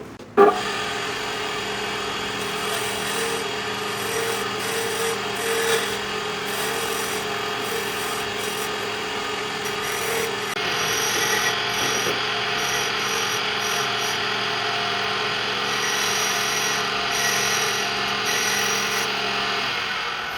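Electric power tool running steadily and working wood, with a steady motor whine under a rough, rasping noise. It starts suddenly about half a second in and grows harsher in the upper range about ten seconds in, as it bears into the wood.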